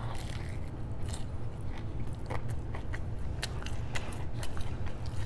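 Close-miked biting and open-mouthed chewing of a fried chicken finger sandwich, with many short wet clicks and smacks scattered throughout over a steady low hum.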